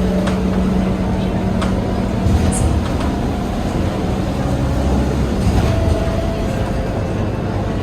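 Scania K230UB single-deck bus on the move, heard from inside: a steady engine drone and low road rumble, with a few light clicks and rattles from the body.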